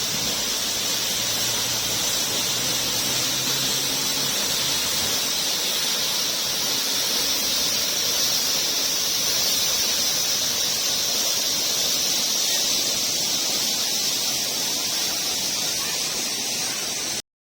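Waterfall of about 35 m plunging into its pool: a loud, steady rush of falling water that cuts off abruptly near the end.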